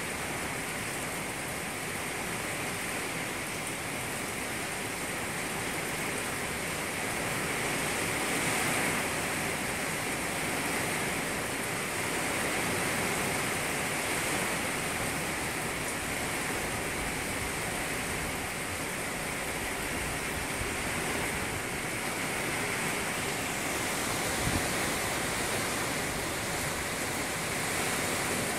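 Steady rain falling on a lake and lawn: an even hiss that swells slightly now and then.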